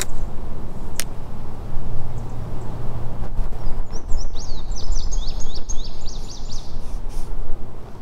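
Songbird singing a rapid run of about a dozen high, downward-slurred notes, about four a second, starting about four seconds in and lasting some three seconds. Under it runs a loud, steady low rumble, with a single sharp click about a second in.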